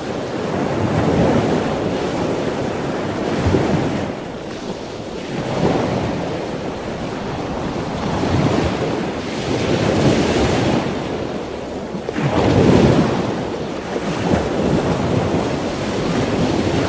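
Ocean waves washing in, a steady rushing that swells and eases every two to three seconds, with a stronger surge about twelve seconds in.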